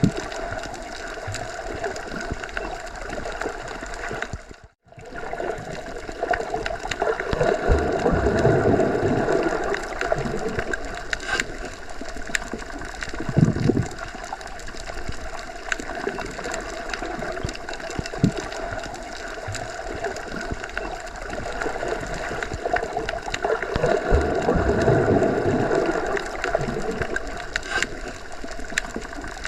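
Underwater ambience: a steady muffled rush of water noise that swells and eases slowly twice, with faint scattered clicks. It cuts out for a split second about five seconds in.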